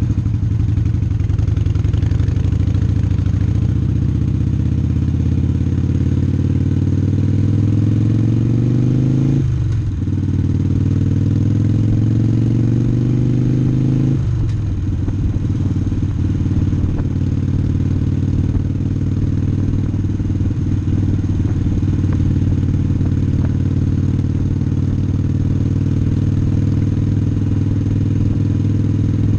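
Harley-Davidson Sportster's air-cooled V-twin engine accelerating through the gears. Its pitch climbs, drops sharply at an upshift about nine and a half seconds in, climbs again, and drops at a second upshift around fourteen seconds. It then runs steadily at cruising speed.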